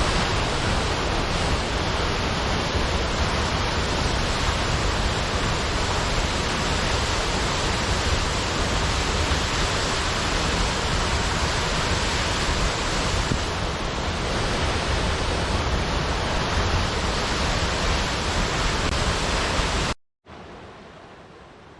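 Steady, dense rush of falling or rushing water. About 20 seconds in it cuts off abruptly, giving way to a much quieter hiss.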